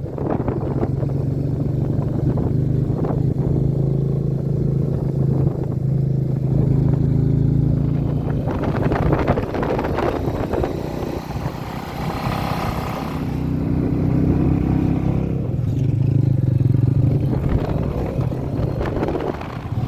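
Royal Enfield Meteor 350's single-cylinder engine running under way as the motorcycle rides, its note wavering with engine speed, with a stretch of louder wind and road noise through the middle.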